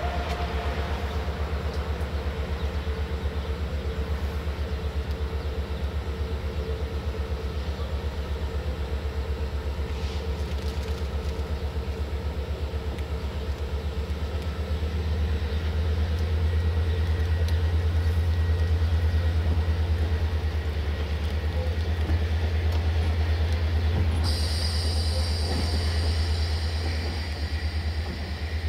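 Passenger train running along the line, heard from the rear of the last coach: a steady rumble of wheels on the track that swells about halfway through. A high, steady whine joins near the end.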